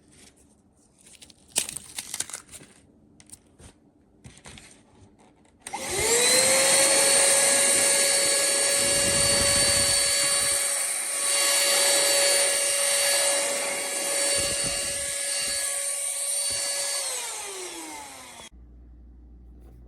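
A few clicks and knocks, then the pemacom cordless handheld vacuum switches on. Its motor spins up to a steady high whine over rushing air, runs for about eleven seconds, then is switched off and winds down with falling pitch to a stop.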